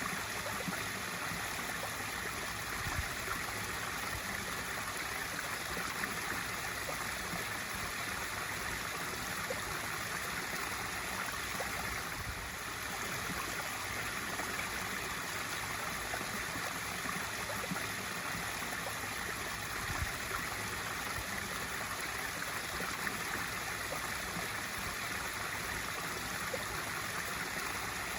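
Swimming pool waterfall feature: water spilling and splashing steadily into the pool.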